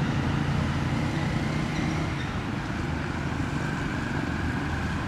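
Steady low rumble of motor traffic, easing slightly about two seconds in.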